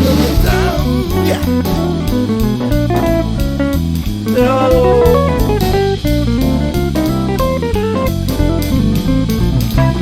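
Band music from a Turkish folk-song arrangement in an instrumental passage: plucked guitar lines over bass and a drum kit keeping a steady beat.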